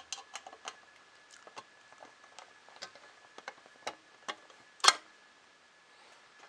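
Irregular light clicks and taps of a screwdriver and small metal screws and parts being handled while assembling a 3D printer kit's bottom plate, with one louder clack about five seconds in.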